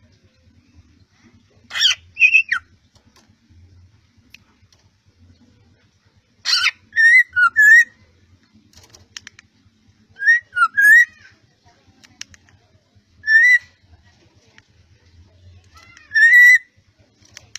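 Black-naped oriole (kepodang) giving five short whistled call phrases, each under a second and a few seconds apart, some opening with a harsh rasping note.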